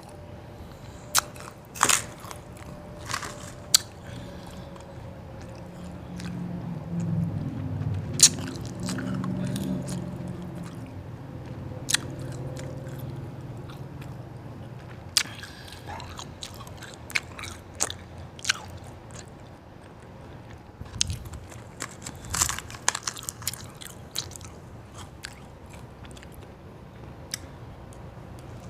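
Close-miked biting and chewing of hard white ice, with sharp, irregular crunching cracks.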